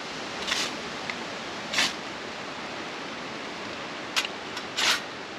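A steady hiss, with four short, louder rustles: about half a second in, near two seconds, and twice between four and five seconds.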